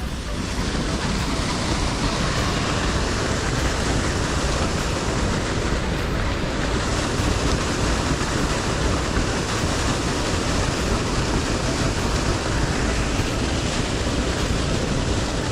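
Steady rushing noise of water pouring into the river from a pump outflow, even and unbroken.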